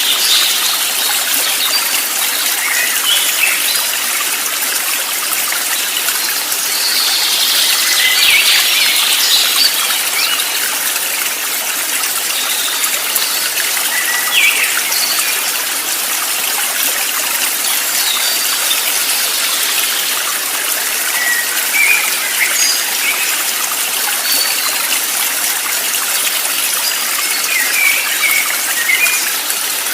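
Steady rush of a flowing stream, with short bird chirps scattered throughout.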